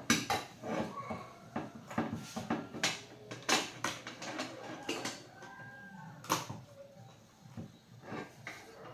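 Irregular clicks and knocks of hard objects being handled, some sharp and some duller, at uneven intervals.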